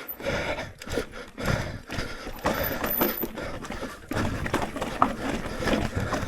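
Electric mountain bike clattering over rough trail: a run of irregular knocks and rattles from the wheels, chain and frame.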